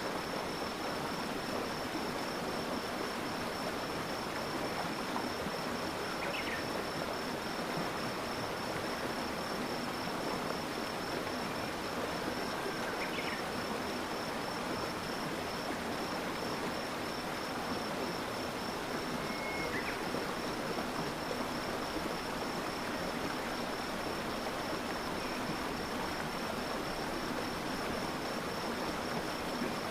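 Steady rush of a flowing stream, with an insect's continuous high, rapidly pulsing trill over it. A few brief chirps come through about 6, 13, 20 and 30 seconds in.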